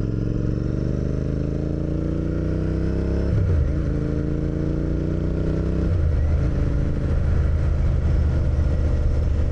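Royal Enfield motorcycle engine pulling through the gears while riding: the engine note rises steadily, dips at an upshift about three seconds in, rises again, and dips at a second upshift about six seconds in before running steadier.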